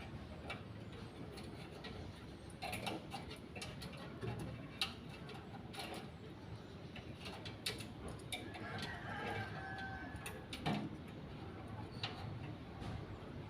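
Irregular light clicks and knocks from hands-on work, with a brief pitched call, like a chicken's, about nine seconds in.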